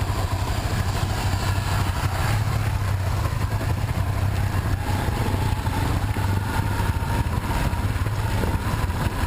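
Motorcycle engine running steadily at an even speed, with no clear revving.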